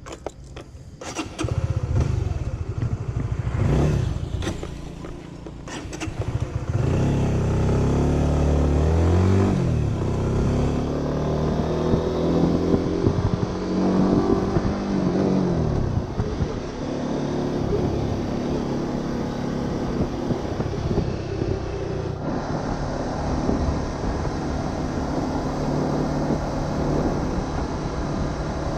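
Honda Winner 150's single-cylinder engine running under way, with a few knocks early on. About ten seconds in and again near the middle, its pitch climbs as it revs up, then drops sharply at a gear change before settling into a steady cruise.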